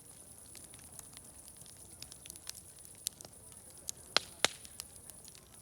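Wood fire crackling: scattered small snaps and ticks, with two sharp, louder pops close together about four seconds in, over a steady high hiss.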